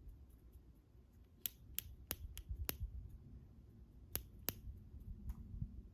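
Cockatiel snapping its beak shut in sharp clicks: five in quick succession about a second and a half in, then two more about a second later.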